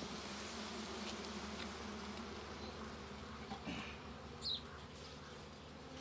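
Honeybees buzzing in a steady hum from an open hive that has just been smoked, easing slightly quieter over a few seconds.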